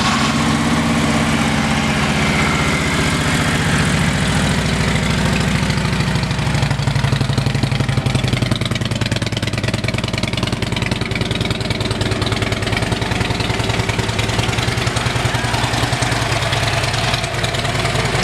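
Harley-Davidson Electra Glide Ultra Classic's 96 cubic inch V-twin running through a Rinehart exhaust, just after starting: it runs at a higher idle for several seconds, then settles to a lower, steady idle about six seconds in.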